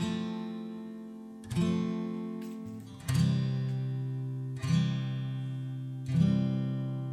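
Background music: an acoustic guitar strumming slow chords, one strum about every second and a half, each chord left to ring and fade before the next.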